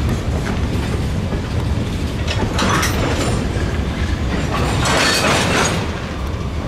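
A train rolling past on the rails: a steady low rumble of the cars, with wheel-on-rail clatter that swells twice, about two and a half and five seconds in.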